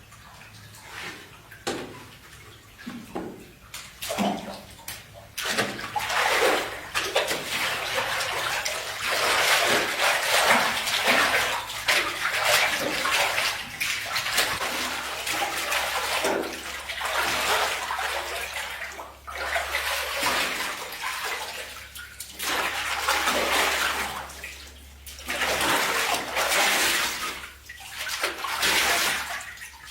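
Water pouring and splashing in uneven surges, faint at first and louder from about four seconds in, with brief lulls every few seconds.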